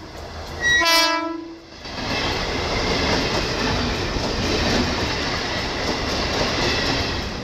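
Mumbai suburban electric local train giving one short horn blast about a second in, then its carriages running past close by with a steady rushing rumble of wheels on the rails.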